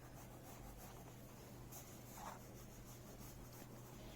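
Faint scratching of a wax crayon colouring on paper in repeated strokes, over a low steady hum.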